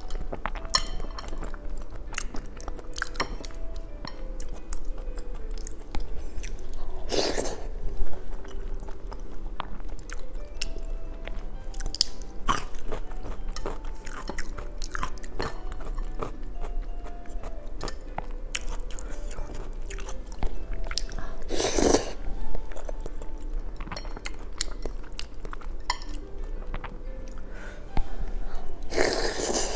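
Close-miked chewing and biting of brain, many small clicks and smacks from the mouth with a few louder bursts, over soft background music.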